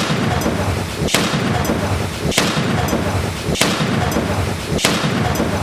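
Firework going off inside a microwave oven: a rapid series of loud bangs about a second and a quarter apart, five in all, over a continuous rushing noise.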